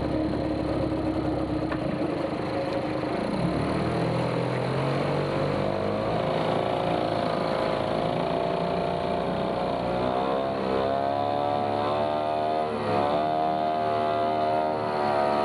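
Small outboard motor engine running, steady at first, then speeding up about five seconds in and holding at a higher speed with some wavering.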